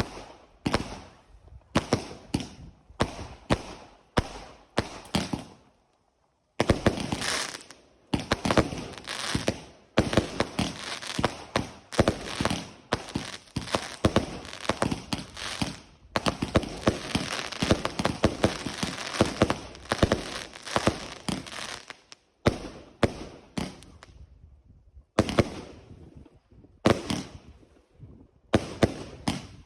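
Fireworks going off during a display: a series of separate sharp bangs, then about fifteen seconds of rapid, dense crackling bangs, then separate bangs again near the end.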